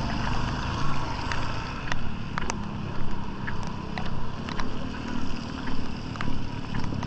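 Heavy rain, with scattered sharp drop ticks over a steady low rumble.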